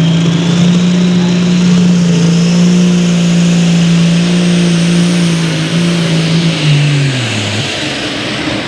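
Pro stock pulling tractor's turbocharged diesel engine running flat out at steady high revs under load, with a high whine above it, then throttling back and winding down in pitch about seven seconds in.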